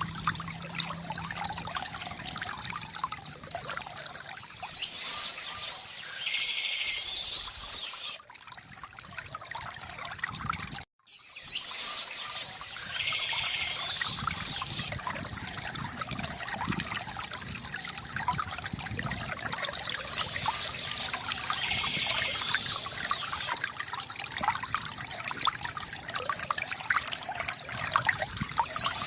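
A stream trickling and splashing steadily, with birds singing in short phrases every several seconds above it. The sound cuts out for a split second about eleven seconds in.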